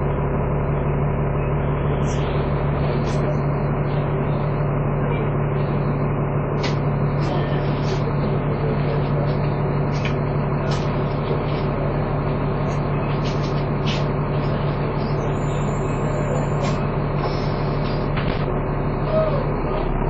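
Dennis Trident 2 double-decker bus running under way, heard from on board: a steady engine hum with a constant vacuum-cleaner-like whine, the "hoover" sound, and a few light rattles from the body.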